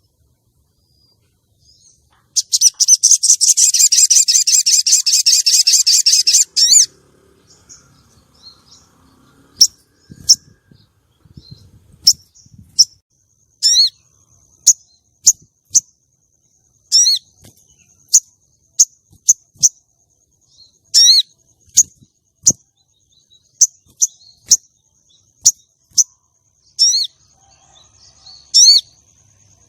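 Female sogon bird calling: a loud, fast rattling trill lasting about four seconds, then a string of short, sharp down-swept notes about a second apart. It is a lure call used to bring in male sogon and excite them.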